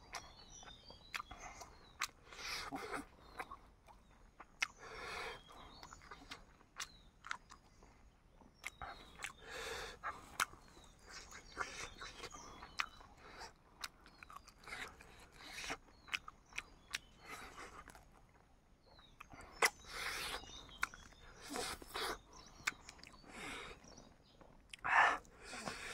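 A person chewing and biting cooked chicken close to the microphone: irregular wet smacks, sharp clicks and short crunchy bursts, with a louder bite near the end.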